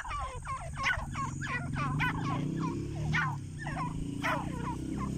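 Grey francolins calling: a dense run of short, harsh notes, several a second, over a steady low hum.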